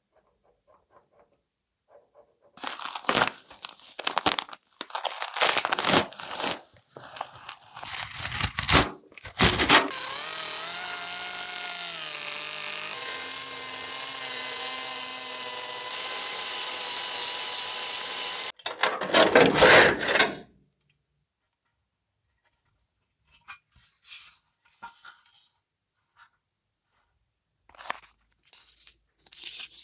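Shop tool noise: several seconds of rough, irregular rasping bursts, then a power tool running steadily for about eight seconds, its pitch stepping slightly twice, then more loud bursts and a few faint clicks near the end.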